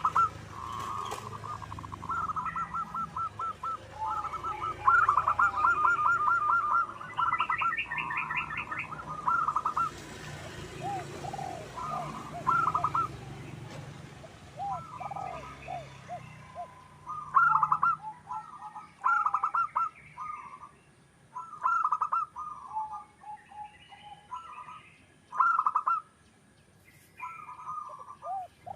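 Zebra doves (perkutut) cooing in repeated phrases of rapid staccato notes. Each phrase lasts a second or two, with short pauses between.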